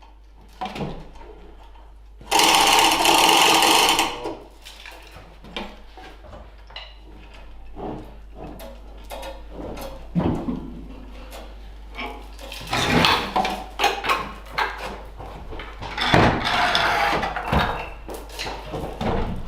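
A power tool runs in one burst of about two seconds, followed by scattered clinks and knocks of metal parts and hand tools, with two longer stretches of rattling work later on.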